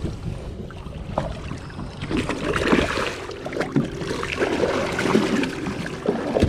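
Irregular knocking and rustling from a redfish being handled and unhooked aboard a kayak, with the fish struggling in the angler's hands.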